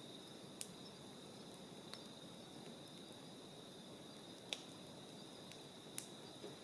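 Crickets chirping in a faint, steady high-pitched trill, with four sharp ticks scattered through it.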